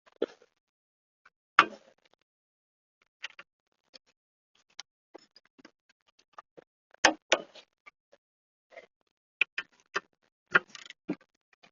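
Irregular clicks and knocks, a couple of dozen short taps at uneven spacing, with louder knocks about a second and a half in, around seven seconds in and near the end: tools and parts being handled during brake work on a van.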